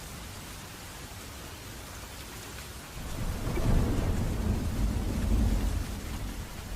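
Steady rain, with a roll of thunder rising about three seconds in, rumbling loudest for a couple of seconds and then fading.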